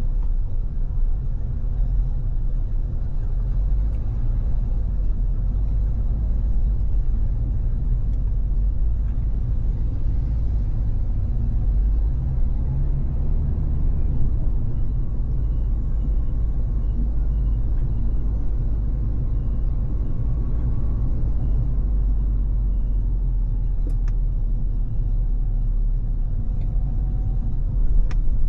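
Steady low rumble of a car driving at freeway speed: road and tyre noise with engine hum. A few sharp clicks near the end.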